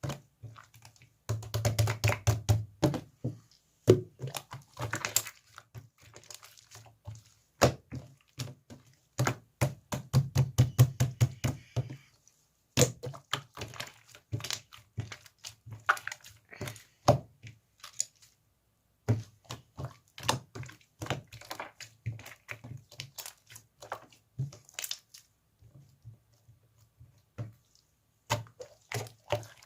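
Slime being squished and pressed by hand, giving a dense stream of sharp clicks and pops, with a couple of brief pauses.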